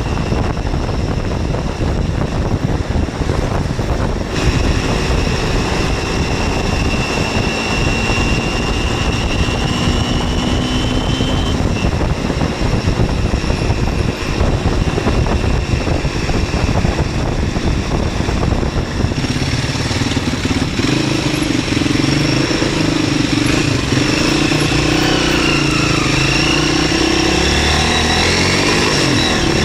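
MZ 125 SX motorcycle's 125 cc engine running under way, heavily masked by wind rushing over the microphone. About two-thirds of the way through the wind drops and the engine note comes through more clearly, its pitch rising and falling with the revs.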